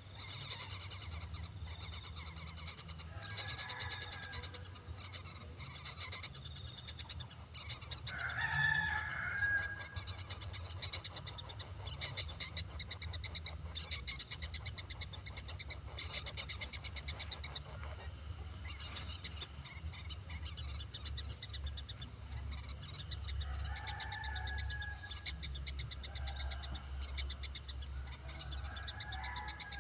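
A few separate drawn-out bird calls, the loudest about a third of the way in, over a steady high-pitched chirring of insects.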